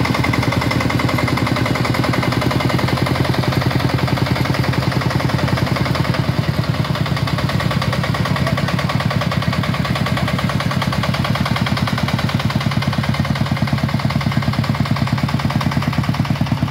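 Shifeng 40 tractor's single-cylinder diesel engine running steadily with a rapid, even chugging beat.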